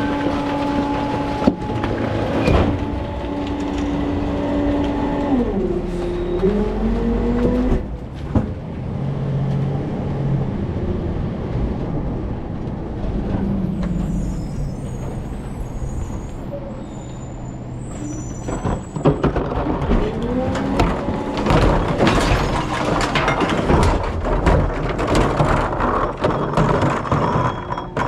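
Rear-loader recycling truck working: the engine and hydraulic whine hold steady, then drop and climb back in pitch, with a faint high squeal midway. A long run of clattering and banging follows in the second half.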